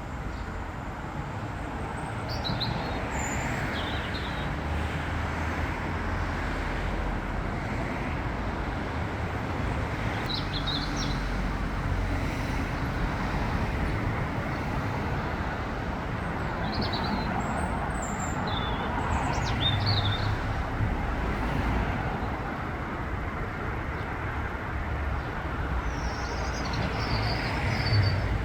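Small birds chirping in short, scattered bursts, a few times over the half-minute, above a steady louder rumble of road traffic.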